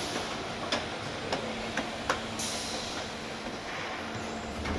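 Car assembly plant machinery: a steady mechanical noise and hum, with sharp clicks and knocks at irregular intervals.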